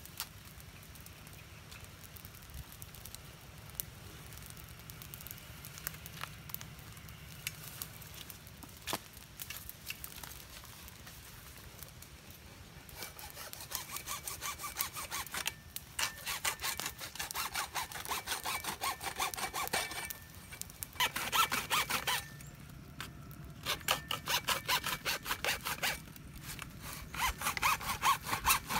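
Hand sawing: rapid back-and-forth cutting strokes begin about halfway in, after a quiet stretch with a few light clicks, and pause briefly twice before carrying on.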